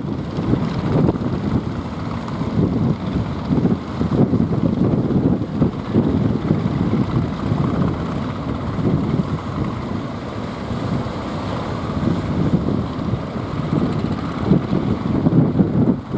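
Strong wind buffeting the microphone, a dense gusty rumble.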